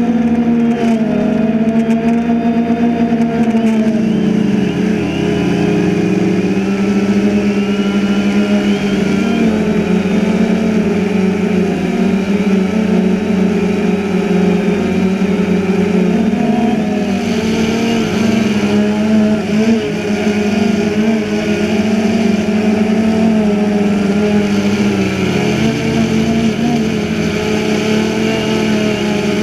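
DJI Phantom 2 quadcopter's electric motors and propellers whirring in flight, a loud steady hum with overtones whose pitch wavers slightly as the drone adjusts its motor speeds.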